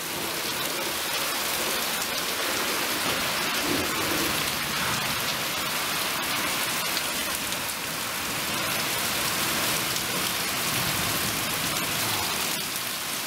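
Heavy rain pouring down in a steady, even hiss, with a few faint drop ticks standing out.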